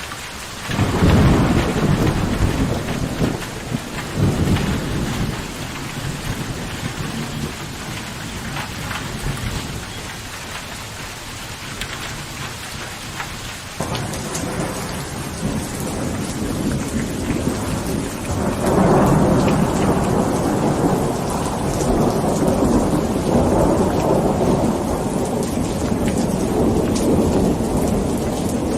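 Steady rain with thunder. A loud clap about a second in rolls away over several seconds, and a long low rumble of thunder runs through the second half.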